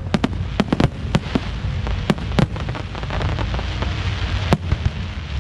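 Fireworks going off in quick succession: a rapid string of sharp pops and crackles, thinning into a crackling fizz, with one loud crack about four and a half seconds in, over a steady low rumble.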